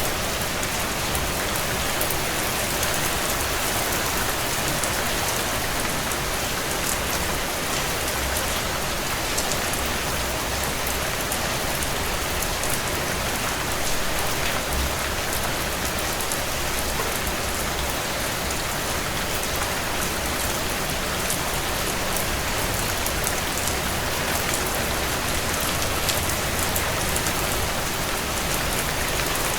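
Steady heavy rain on window panes, a continuous even hiss, with many small scattered ticks and crackles through it that fit a wood fire crackling in a fireplace.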